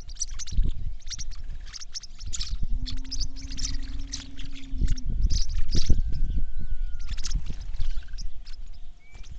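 Birds calling: many short, quick chirps and clicks over low thumps, with one held, pitched call lasting about two seconds from around three seconds in.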